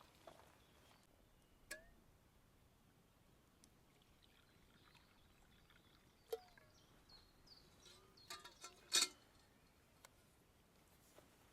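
A few sparse, light knocks and clicks against near quiet, the loudest cluster about nine seconds in.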